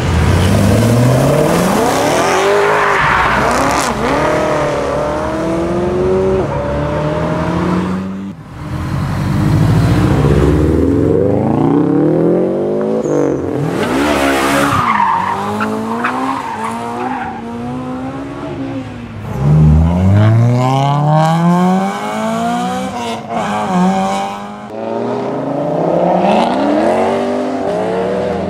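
Performance car engines revving hard as cars accelerate away one after another, beginning with a BMW M3's V8. The revs climb in sweeps and drop back at each gear change.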